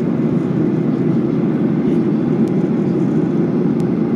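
Steady cabin noise inside a Boeing 737-800 in descent: an even rush of airflow and engine drone, heaviest in the low range.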